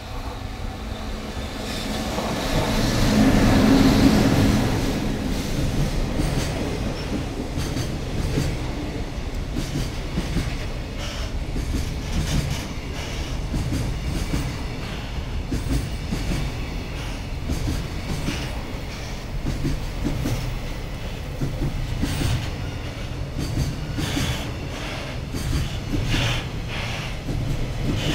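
EF65 electric locomotive hauling a freight train of container wagons through the station at speed. It is loudest as the locomotive passes, about four seconds in. The container wagons then run past with a steady clatter of wheels clicking over the rail joints.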